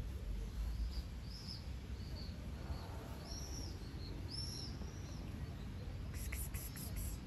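A small bird singing nearby: a run of short, high, arched chirps, over a steady low rumble. A few faint clicks come near the end.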